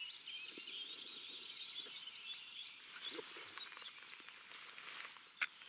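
Small birds chirping and singing in the riverside woods, many short high calls overlapping throughout. A single sharp click near the end.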